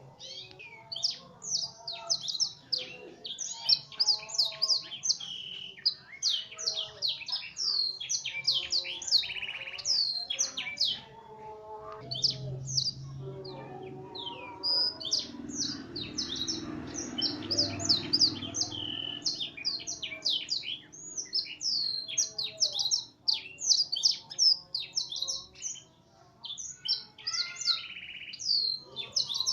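Domestic F1 canary singing a fast, continuous song of rapid high chirps and trills, filled with phrases learned from a black-throated canary (blackthroat) tutor. A low muffled noise sits under the song in the middle.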